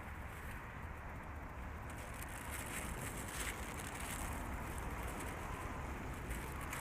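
Steady low rumble of distant road traffic, with faint rustling and crackling in the middle.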